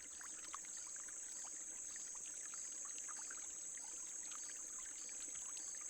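Small stream trickling and bubbling, with many small irregular splashes, over a steady high-pitched insect drone.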